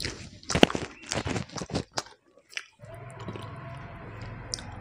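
Close-miked chewing and wet mouth smacks from a mouthful of rice and curry, with a run of sharp clicks and smacks in the first two seconds, then softer, steadier chewing.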